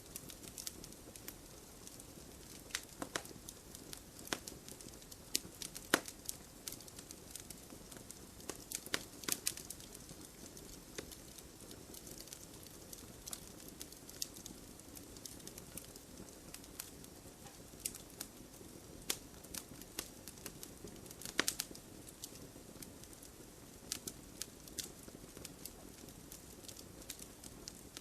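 Wood fire in a fireplace crackling, with irregular sharp pops and snaps over a steady low rush of burning.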